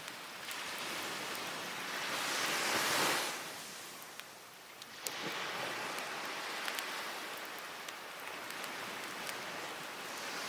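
Sea waves washing onto the beach: one swells and breaks about three seconds in, and another rolls in around five seconds. Sharp crackles and pops from a wood campfire are scattered over the waves.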